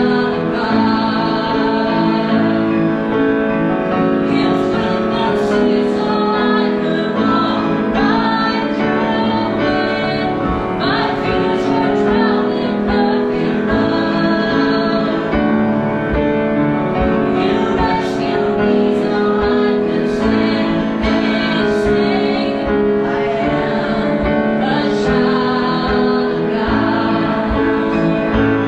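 Worship song: singing voices, a woman's voice most prominent, over steady instrumental accompaniment.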